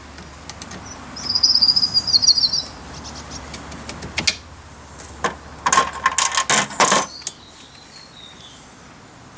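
Door-catch pin being pulled out of a plastic tumble-dryer door handle: sharp clicks and taps, most of them in a quick cluster past the middle, one with a brief ring. A high warbling chirp sounds about a second in.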